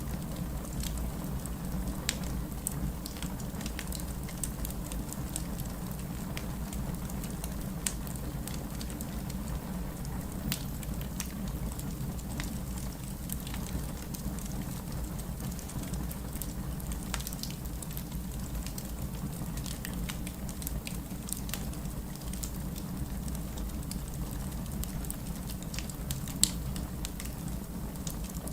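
Fireplace crackling with scattered small pops, and one sharper pop near the end, over a steady wash of distant city rain.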